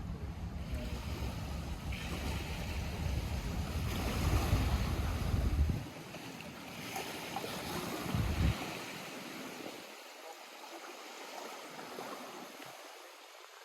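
Lake water washing and lapping at the shore, a steady rushing noise. It starts with a low rumble underneath that drops away abruptly about six seconds in, and after that the water sounds quieter.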